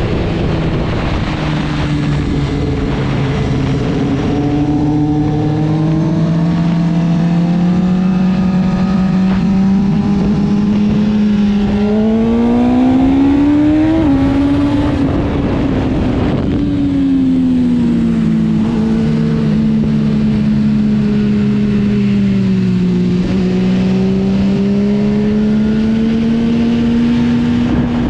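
Motorcycle engine heard on board while riding, its pitch climbing gradually to a peak about halfway through, dropping back, then holding fairly steady.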